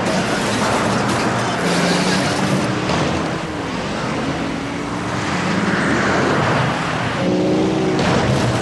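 Several racing car engines running hard together, their notes rising and falling as the cars race.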